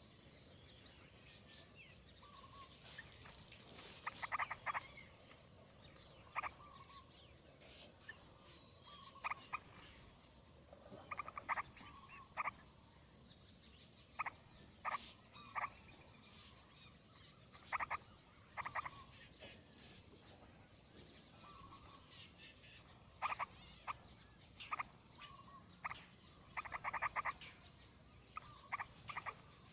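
Frogs croaking: short rasping calls, each a quick train of pulses, repeated irregularly, sometimes in doubles or clusters, over a faint outdoor hiss.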